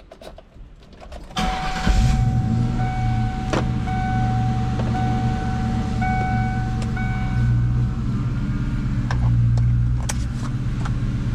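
Ford Mustang engine cranking and starting about a second and a half in, then settling into a steady, deep idle. A car's warning chime beeps repeatedly over the idle for several seconds, with a few light clicks.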